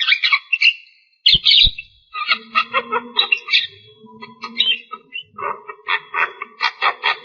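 Javan myna (jalak kebo) singing a long run of rapid chattering, whistled and harsh notes, with a brief pause about a second in. Two dull knocks come about a second and a half in.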